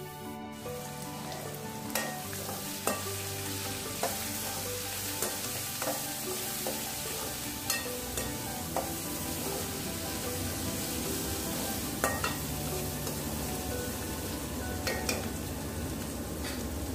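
Chopped onions, green chillies and curry leaves sizzling as they fry in an aluminium kadai, stirred with a spoon that scrapes and clicks against the pan every second or two.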